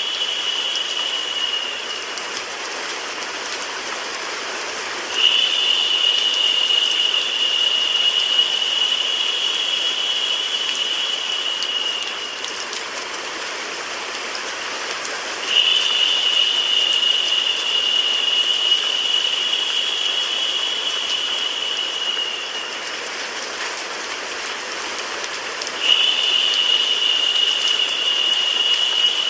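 Steady rain sound mixed with white noise. A higher hiss layer switches on about every ten seconds, lasts about seven seconds, then drops away, in a repeating loop.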